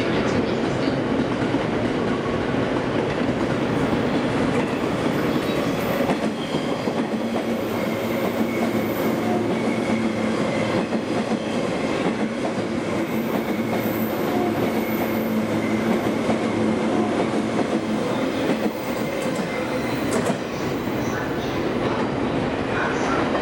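A JR East 185 series electric train running through the station. It makes a continuous, steady sound of wheels on the rails.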